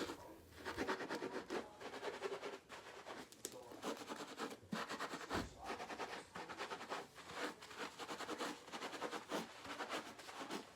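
Faint, irregular rubbing and scratching of hands working through wet hair as fenugreek paste is rinsed out.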